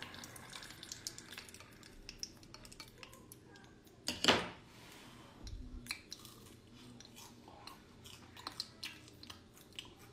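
Crunching and chewing of a crisp deep-fried scorpion, with many small crackles and one much louder noise a little over four seconds in.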